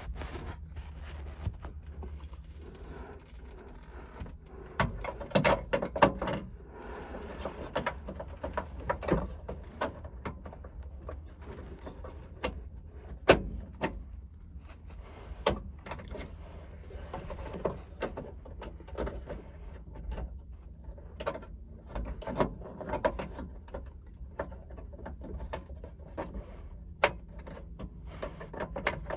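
Scattered clicks, clanks and knocks of hand tools and car interior parts being handled, over a steady low hum, with busier clattering about five to seven seconds in.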